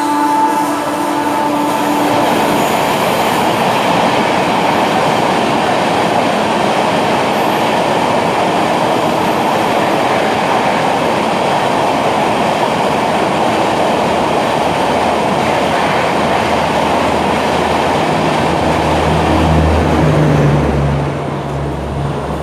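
Shipra Express with LHB coaches running through at speed: a steady, loud rush of wheel and rail noise with some clickety-clack. The horn's last note dies away in the first two seconds, and a low hum joins near the end.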